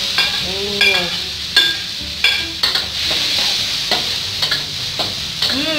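Chopped garlic, ginger, chillies, onion and spring onion sizzling in plenty of melted butter in a wok. A metal spatula scrapes and knocks against the wok again and again as they are pushed in and stirred.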